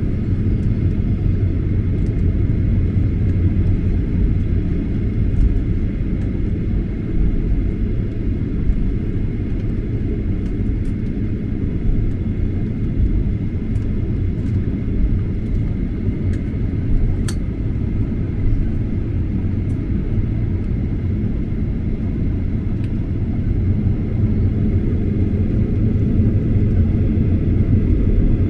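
Steady low cabin rumble inside a Boeing 737-800 from its jet engines and the airflow, with a faint steady high tone above it.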